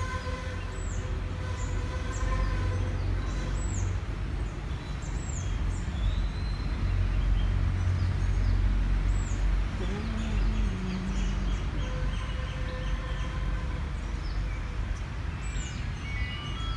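Outdoor ambience under a steady low rumble, with a small bird giving short, high chirps every second or two.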